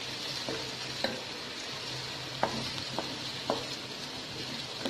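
Carrots and capsicum sizzling as they fry in hot oil in a wide pan, with a spoon stirring them and a few scattered clicks.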